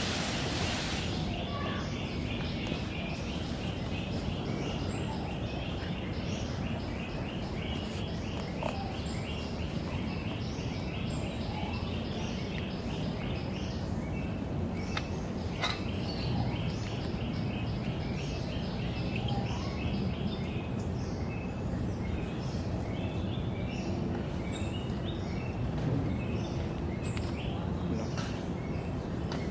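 Small birds chirping in quick, high, repeated notes over a steady low background rumble. The chirping is busiest in the first half and thins to scattered calls later.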